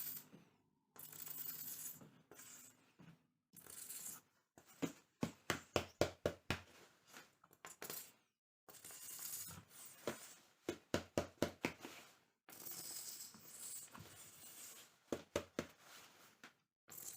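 Hands working rattan cane, with rustling, scraping strokes and gaps between them, and two runs of quick sharp clicks or taps near the middle.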